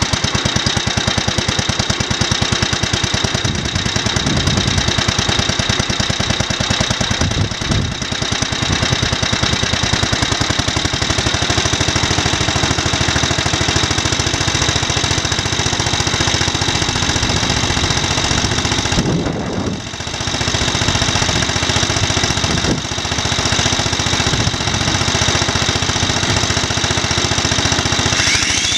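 Wisconsin AEH single-cylinder air-cooled engine driving a generator, running steadily with a fast, even beat and a brief dip about two-thirds of the way through. It is running well after its carburetor parts were swapped and its ignition timing, which had been 180 degrees out, was corrected.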